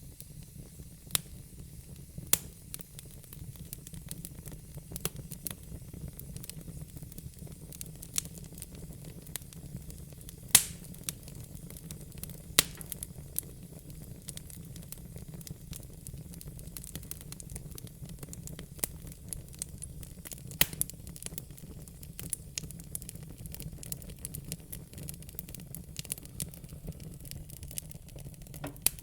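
Wood fire in a fire pit crackling, with irregular sharp pops throughout and a few much louder snaps, the loudest about ten and a half seconds in, over a steady low rumble.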